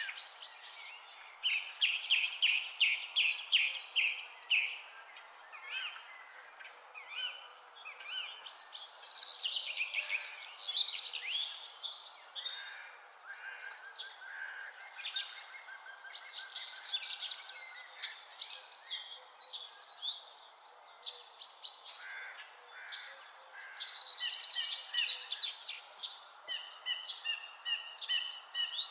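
Several songbirds singing and calling at once, with fast repeated trills and chirps that overlap throughout, over a steady low hiss.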